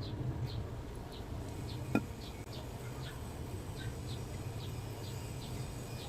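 Background animal chirping: short, high, slightly falling chirps repeating about two a second, over a low steady hum, with one sharp click about two seconds in.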